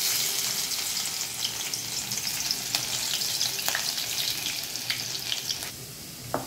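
Finely chopped garlic and chilli dropped into hot oil in a kadai, sizzling at once with a dense hiss and light clicks of stirring. The sizzle eases a little near the end, and a single knock comes just before the end.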